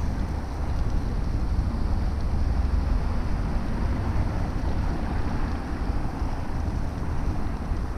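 Wind buffeting the microphone of a moving bicycle: a steady low rumble with a haze of street and tyre noise over it.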